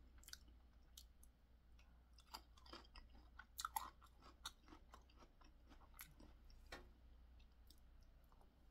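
Faint close-up chewing: soft, wet mouth clicks and smacks from a person eating, scattered irregularly, with a louder flurry midway.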